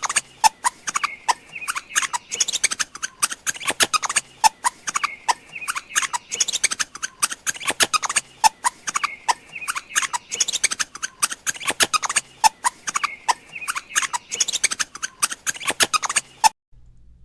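Rapid clicks and short high squeaks from a small animal, repeating as a loop about every two seconds and cutting off suddenly near the end.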